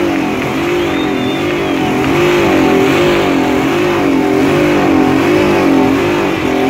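Older BMW sedan's engine held at high revs, the pitch rising and falling in an even wobble a little more than once a second, with a steady hiss of rear tyres spinning in a smoky burnout.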